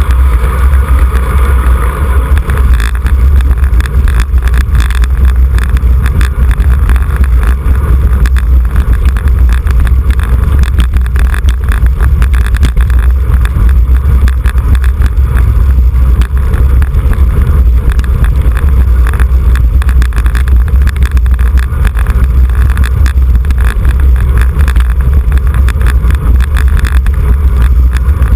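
Wind buffeting a microphone carried on a moving road bicycle: a loud, steady low rumble with rough flutter on top.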